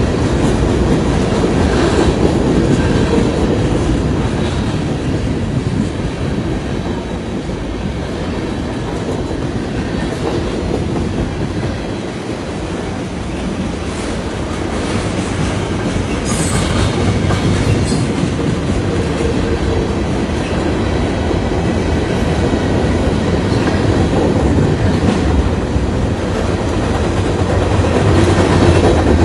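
Freight train cars rolling past, steel wheels rumbling and clicking over the rail joints, with a short high wheel squeal about halfway through.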